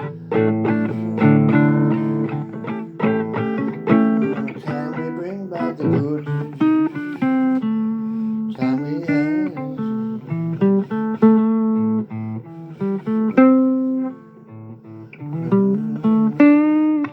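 Blues guitar playing an instrumental passage: picked single notes and chords, with several bent and wavering notes.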